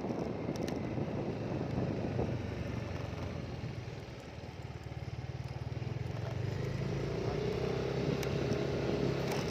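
Small engine running steadily, easing off around four seconds in and then picking up again, with wind rushing over the microphone.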